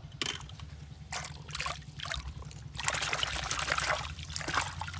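Water trickling and splashing in a few short bursts as a toy car is washed, the longest and loudest stretch about three seconds in, over a steady low hum.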